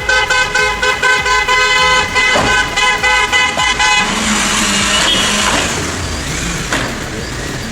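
A car horn blaring in long held honks with brief breaks for the first four seconds or so, then a steady rushing noise.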